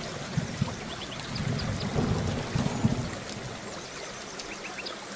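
Steady rain falling, with a low rumble underneath that dies away about three seconds in, and a few faint high chirps.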